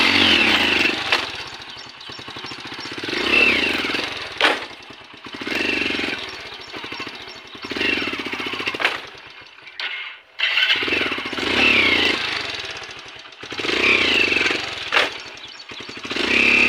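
Hero HF Deluxe's small single-cylinder motorcycle engine revved in repeated bursts, swelling and dying back about every two seconds. A brief break comes near the middle.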